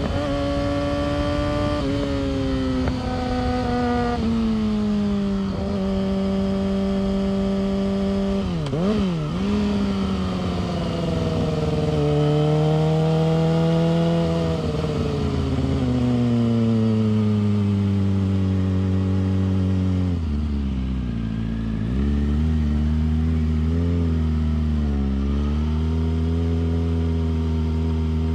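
Yamaha R6's inline-four engine and exhaust under way, its pitch falling and rising again through gear changes and throttle, with a quick dip and rise about 9 s in. About 20 s in it drops to a low, steady note with a few short blips of throttle.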